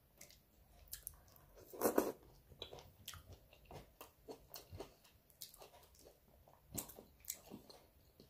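Close-miked eating sounds: chewing and lip smacks, a run of short, scattered wet clicks with a louder cluster about two seconds in.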